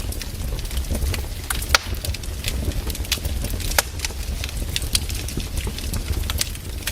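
Wood fire burning: irregular crackles and pops over a steady low rumble of flames, with a sharp louder crack about two seconds in and another near four seconds.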